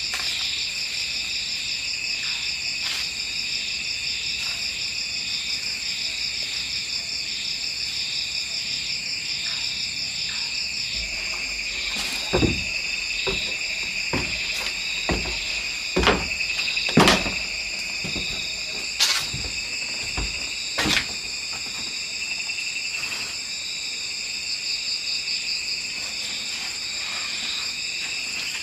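A steady, pulsing chorus of night insects, mostly crickets, shrill and unbroken. About twelve seconds in, a series of scattered knocks and taps starts, some dull and heavy, and they thin out after about twenty seconds.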